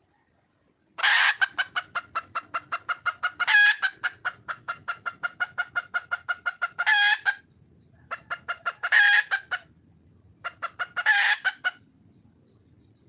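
A junglefowl hen calling for a mate: three runs of rapid clucks, about six a second, each broken by a louder drawn-out note. The first run goes on for about six seconds; the other two are short.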